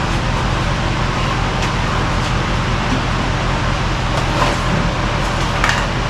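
A vehicle's engine running steadily.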